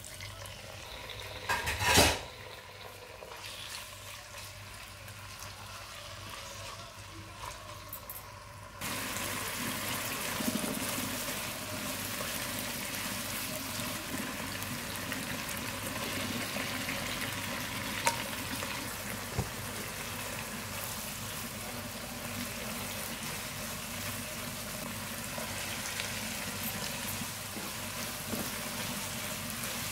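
Chicken and garlic sizzling in hot oil in a wok, stirred with a silicone spatula. There is a loud sudden burst about two seconds in, and from about nine seconds the sizzle turns abruptly louder and stays steady.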